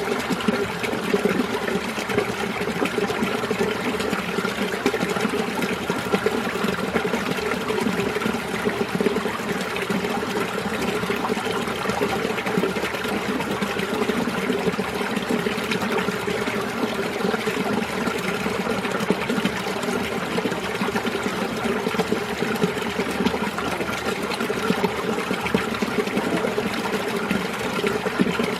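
Mountain stream water running and burbling over rocks in a winter valley, a steady, even rushing with a bubbling, trickling texture.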